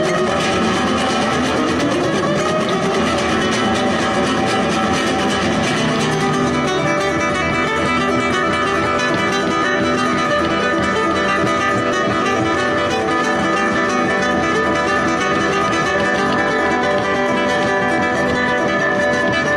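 Solo guitar playing, with notes gliding upward in the first few seconds and then longer ringing notes.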